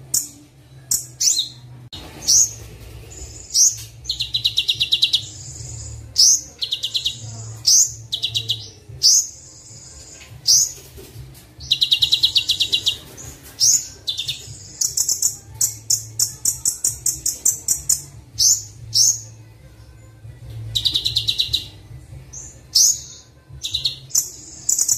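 Kolibri Wulung sunbird song: a string of sharp, high chirps broken by fast rattling trills, some a second or more long, over a faint low hum.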